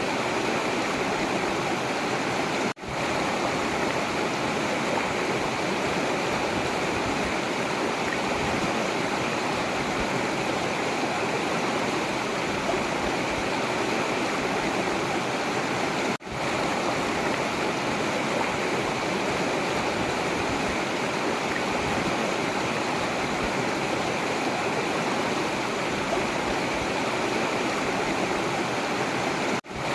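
Forest river water rushing steadily. The sound cuts out suddenly three times and swells back within a moment, near the start, about halfway and at the very end.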